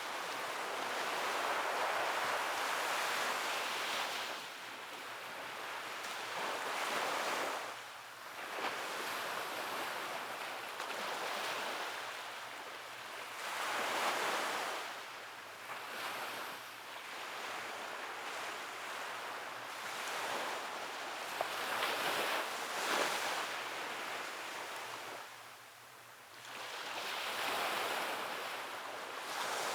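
Sea waves washing onto a shore, the surf rising and falling in slow surges every several seconds, with a brief lull near the end before the next wave comes in.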